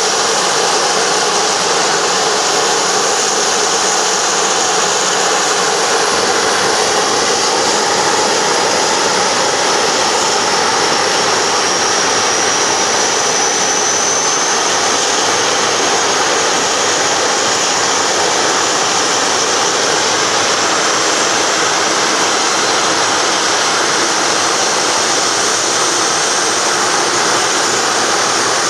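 Jet aircraft on the tarmac running, a loud, steady rushing hiss with a faint high whine that rises slowly in pitch over the first half.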